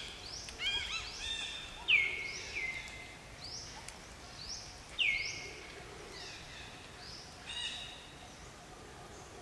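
Birds calling in the forest: a run of short, high calls, each sliding down in pitch, several overlapping. Two sharp, louder calls come about 2 and 5 seconds in, and the calling thins out near the end.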